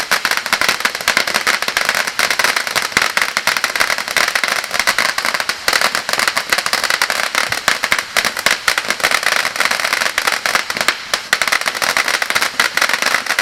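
Bad Boy half-fountain consumer firework going off: a continuous, dense, rapid crackling of tiny pops, loud and unbroken.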